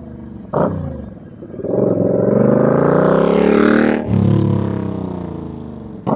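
2002 Suzuki VL800's V-twin engine through Vance & Hines straight-shot pipes with add-on silencers, idling and being revved. There is a quick throttle blip about half a second in, then a longer rev that climbs for over two seconds and drops back, and another short sharp blip near the end.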